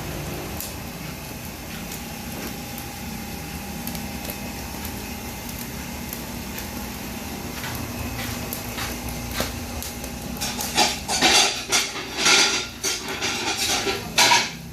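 Steady restaurant background hum, then from about ten seconds in a quick run of sharp metal clatter and clinks of dishes and utensils being handled.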